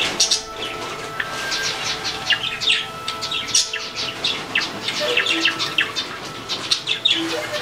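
Many small birds chirping together in a dense, overlapping chatter of short high notes, with a couple of brief low notes late on.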